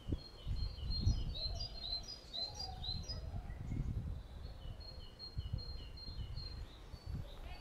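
A small songbird singing two phrases of quick, repeated high chirps, the first in the opening three seconds and the second about five seconds in, over a gusty low outdoor rumble.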